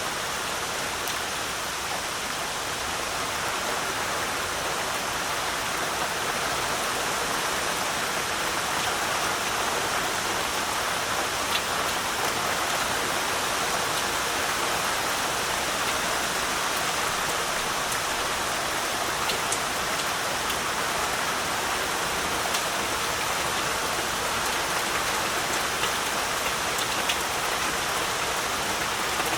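Heavy rain falling steadily, an even hiss with scattered single drop ticks.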